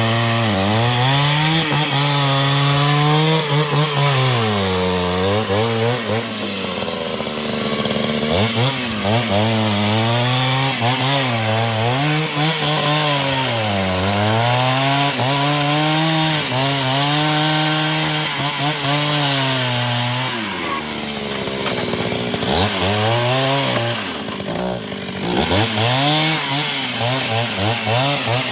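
Chainsaw running at high revs while ripping boards from a log, its engine pitch sagging each time the chain bites into the wood and climbing back between passes.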